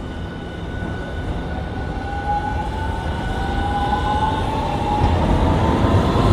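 Hiroshima Electric Railway streetcar pulling away, its motor whine gliding slowly upward in pitch over the rumble of the wheels on the rails, getting louder.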